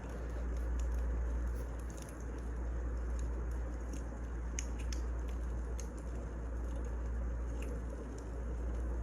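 Wood fire crackling: scattered sharp pops and snaps over a steady hiss and low rumble.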